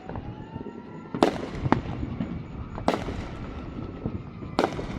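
Aerial fireworks bursting: four sharp bangs, two close together just over a second in, then one near three seconds and one near the end, with crackling and a low rumble between.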